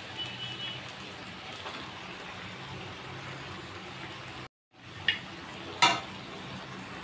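Vegetables and spinach sizzling steadily in a metal kadai, with two sharp clinks of a metal spatula against the pan near the end.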